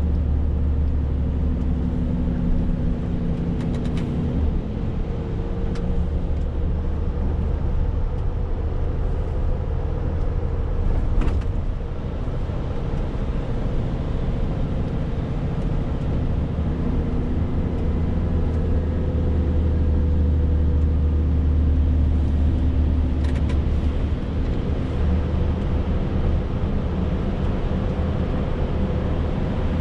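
Renault T520 truck's six-cylinder diesel engine running steadily on the road, a low drone with road noise, with a few faint clicks.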